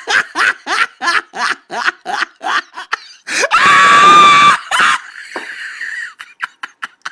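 A person's rapid staccato laughter, about three short bursts a second for some three seconds, then a loud high-pitched scream held for over a second.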